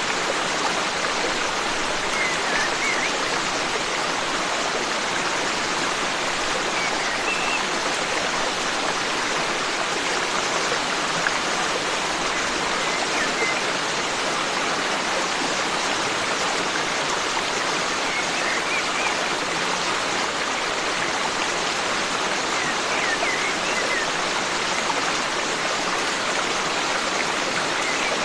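Forest stream flowing steadily over rocks, with faint short bird chirps every few seconds.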